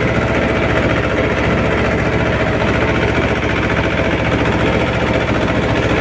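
Mahindra 24 HP mini tractor's diesel engine running steadily with an even, rapid beat.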